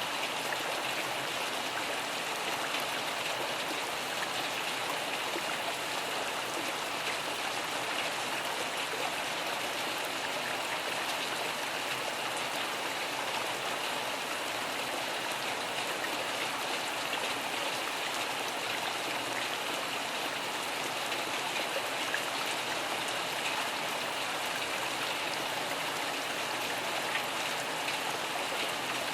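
Steady rain falling: an even hiss of drops with no let-up.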